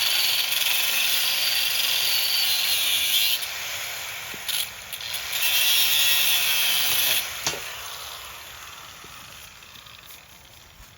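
Power cutting tool, most likely an angle grinder with a cutoff wheel, cutting through steel sucker rod with a loud steady hiss. The cut eases off after about three seconds, bites again briefly, then runs on for another stretch. After about seven seconds the sound fades away slowly as the tool winds down.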